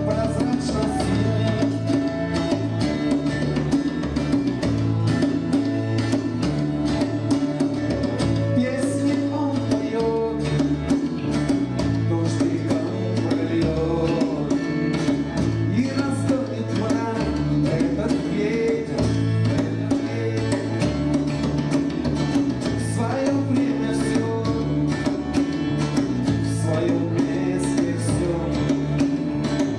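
A rock song played by a band: guitar over a bass line that moves in steps, with regular sharp percussion hits and singing.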